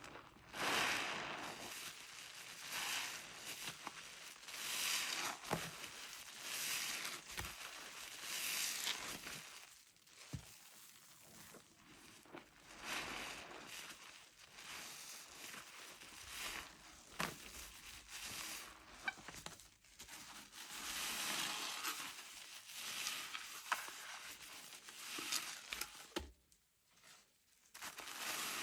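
A soapy sponge lathered with orange car wash soap and Zote flakes being squeezed over and over, each squeeze a squelch of foam lasting a second or two, with a few sharp clicks between. There is a brief lull a little before the end.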